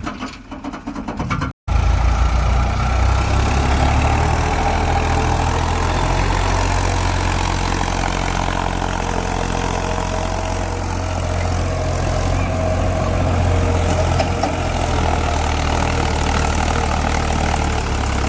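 A heavy diesel engine running steadily at low revs. It follows a brief cut-out about a second and a half in.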